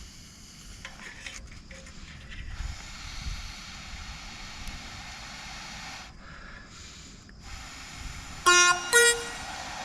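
A person blowing long, steady breaths onto a struggling campfire to fan the kindling into flame. Near the end come two short, loud tooting tones, the second higher than the first.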